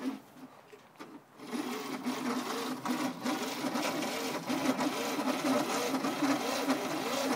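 Fiat 126's small air-cooled two-cylinder engine running with a fast, busy clatter, setting in about a second and a half in. Its revs rise and fall unevenly, as from an engine just woken after twenty years standing, while the throttle at the carburettor is worked by hand.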